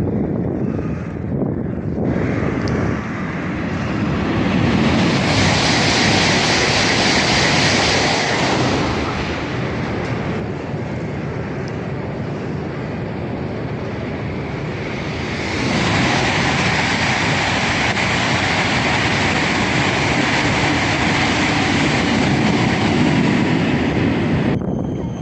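Train running: a steady rush of wheel-on-rail and running noise. It swells louder about four seconds in and again around sixteen seconds, easing off between the swells.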